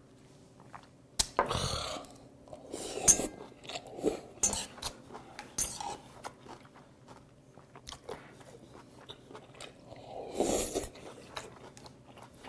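Close-up chewing and crunching of raw squid and sea hare in cold mulhoe, with metal chopsticks clicking against a stainless-steel bowl. Two louder breathy bursts come about a second in and again near the end.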